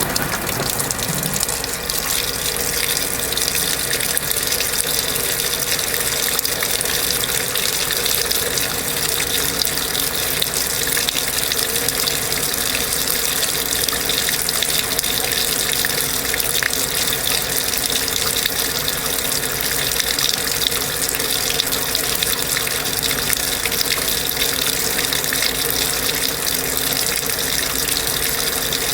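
Water rushing steadily through the hoses of a Kenmore belt-drive portable washing machine hooked to a sink faucet, with a faint steady machine hum underneath.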